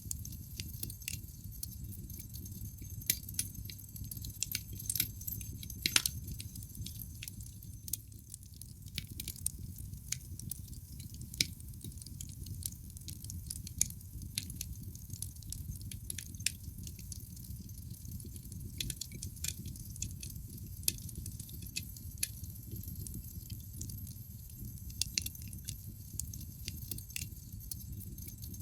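Wood fire in a fireplace crackling: a low steady rumble of burning logs with irregular sharp pops and snaps, one loud pop about six seconds in.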